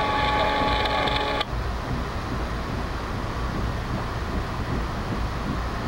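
Steady low rumble of a passenger train rolling, heard from inside the coach. For the first second and a half a chord of steady tones sounds over it and cuts off suddenly.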